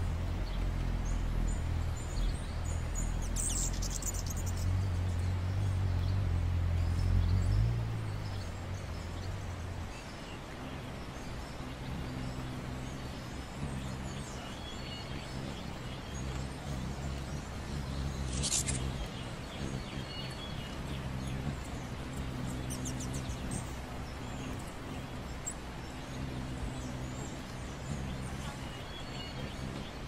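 Birds chirping in short, scattered calls over a steady low hum; the hum is loudest at first and drops lower after about eight seconds.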